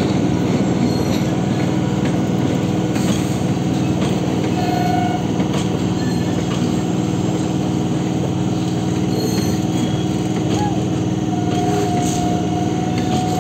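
A train's steady running drone with a fast, even pulse, voices faint behind it. A brief held tone sounds about five seconds in and again near the end.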